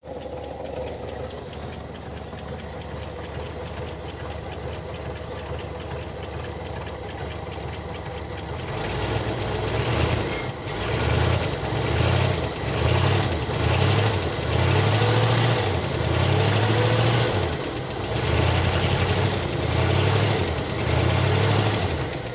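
1970 Oldsmobile's V8 engine running as it warms up after an ether-assisted start, a steady idle at first, then from about nine seconds in louder, rising and falling in repeated swells. It runs smoothly, "like a sewing machine".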